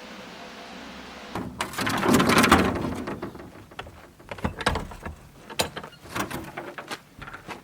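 A steady hiss, then about a second and a half in a door opens with a loud rush of noise, followed by a string of scattered knocks and clicks.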